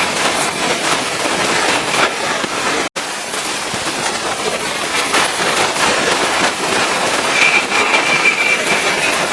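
Pressure washer spraying water against a vehicle: a loud, steady hiss, broken by a sudden cut about three seconds in, with a faint thin whine near the end.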